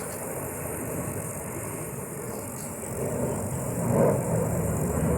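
Aircraft engine noise at an air show: a steady rumbling rush that grows louder over the last two seconds as the plane draws nearer.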